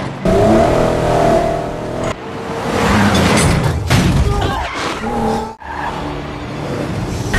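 Film chase soundtrack: a Jeep Wrangler and a pursuing truck with their engines revving and tyres skidding on a dirt road. The sound breaks off sharply twice at shot cuts.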